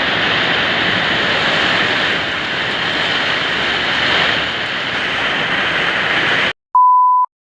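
Heavy rain falling in a steady hiss that cuts off suddenly, followed by a short, pure, steady beep lasting about half a second.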